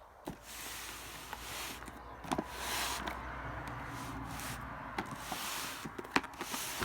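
Handling noise from a heavy firework cake being moved about and turned over: rustling, with a few sharp knocks, the loudest about six seconds in.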